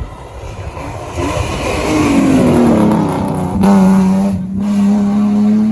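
A rally car coming through at speed. The engine gets louder and its note falls, cuts out briefly twice around the middle, then holds strong and climbs slowly.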